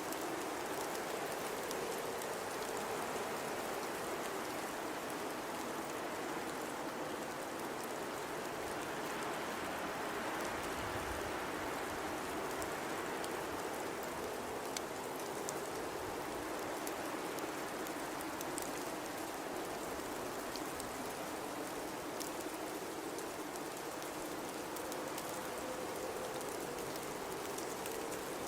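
Blizzard with strong wind: a steady rushing noise with a slowly wavering tone in it, and faint scattered ticks throughout.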